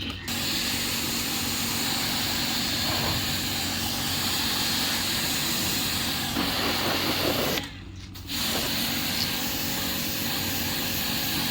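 Air conditioner unit running during a pump-down: a steady rushing sound with a low hum. It drops out abruptly for under a second about eight seconds in, then comes back.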